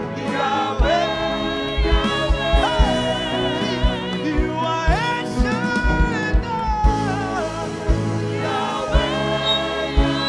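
Gospel praise song with a choir and lead singers holding long gliding notes over a live band, with a steady drum beat.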